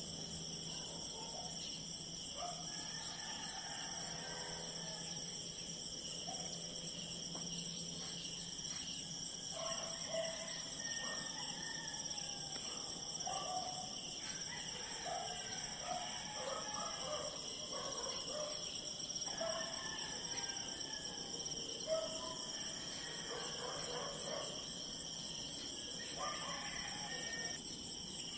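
Steady, high-pitched chorus of crickets or similar insects, with many short calls from other wild animals scattered over it.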